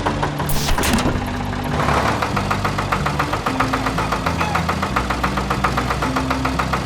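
Cartoon farm vehicle engine sound effect, chugging in a fast even rhythm, with a brief whoosh about half a second in.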